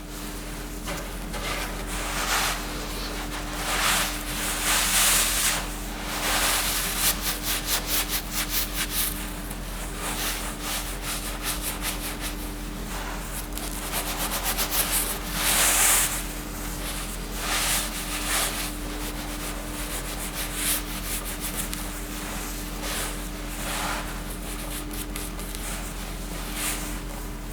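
Rubbing strokes, irregular and fairly loud, with a quick even run of them about a third of the way in and a stronger one just past the middle, over a steady low hum.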